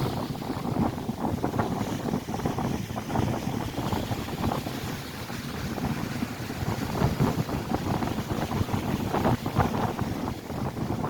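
Strong wind buffeting the microphone in gusts, over the rushing of lake waves breaking on the shore.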